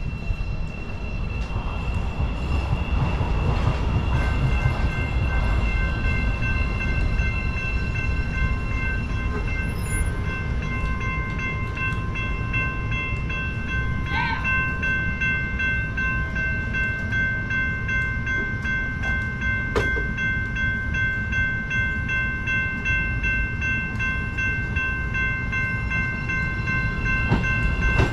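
CTA Yellow Line rapid-transit train: a steady low rumble with several steady high-pitched whines over it, growing louder toward the end, with a short rising chirp about halfway through.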